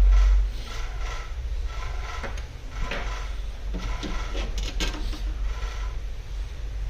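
Clicks, taps and scrapes of small tools and parts being handled during work on a laptop, with a louder knock right at the start, over a steady low hum.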